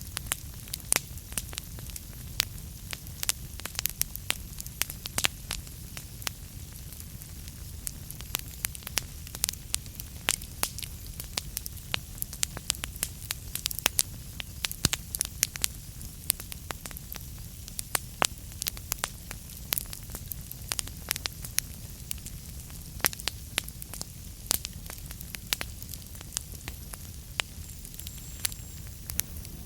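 Wood fire burning in a fireplace, crackling and popping with many sharp irregular snaps over a steady low rumble of the flames.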